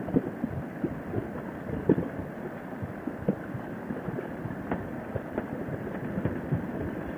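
Motorcycle riding noise at road speed: wind buffeting the microphone over the low throb of the engine, with irregular low thumps.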